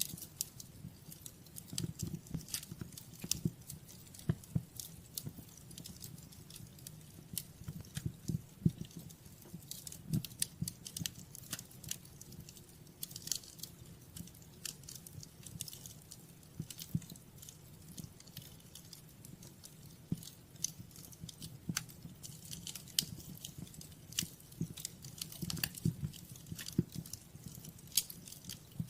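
Wood fire crackling in a fireplace: irregular sharp crackles and pops, several a second, over a soft low rumble of burning.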